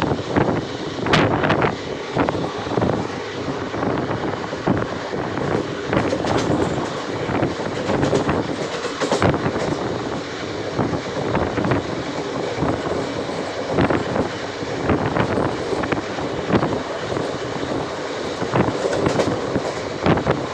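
A moving train running on the rails: a steady rumble with irregular clanks and rattles from the wheels and carriages.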